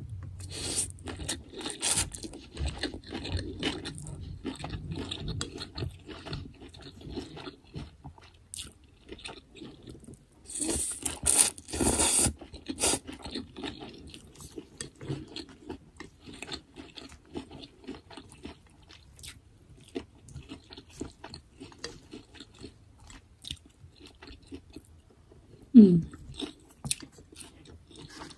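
A person chewing and crunching food close to the microphone, with many small wet clicks. A louder crunchy stretch comes about ten to twelve seconds in, and there is a brief voiced sound near the end.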